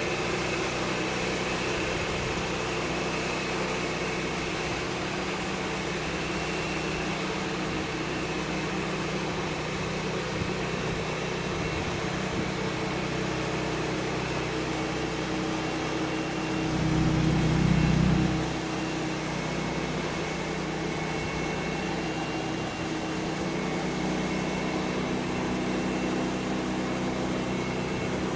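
Sawmill's engine running steadily, with a brief louder low surge about seventeen seconds in.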